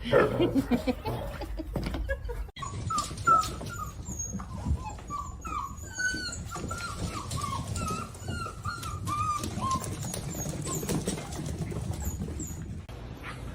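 A dog whimpering: a run of short, high whines, about two a second.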